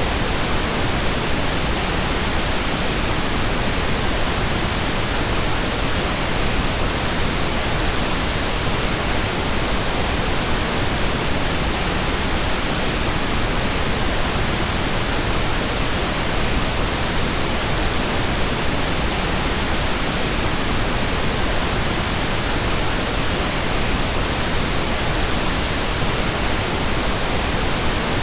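Synthetic pink noise: a steady, even hiss with no changes.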